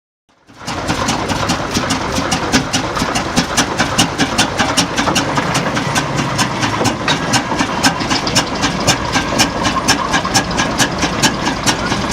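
Antique engine running steadily, with an even beat of sharp clicks about four or five a second; the sound cuts in about half a second in.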